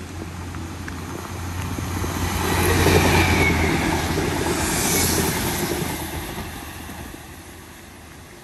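A train passing: a steady low engine drone and wheel-on-rail noise swell to a peak about three seconds in, then fade away over the next few seconds. A brief high squeal comes near the peak.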